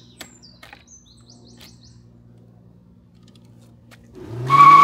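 Birds chirping faintly, a few short high calls in the first second and a half, over a low steady hum. Near the end a loud sound comes in sharply, rising in pitch with a strong steady whine on top.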